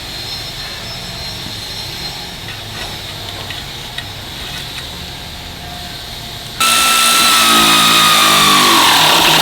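Steady low shop background noise, then, about six and a half seconds in, an air tool starts up loud. Its whine drops steadily in pitch for about three seconds as it runs the transmission-mount bolts in.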